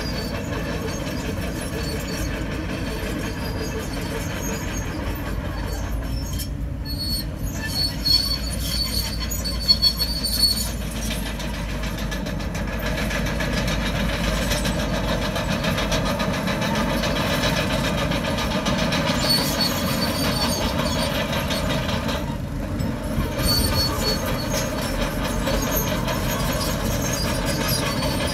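Komatsu crawler bulldozer working, its diesel engine running steadily under the squeal and clank of its steel tracks, with a few louder clanks about a third of the way in.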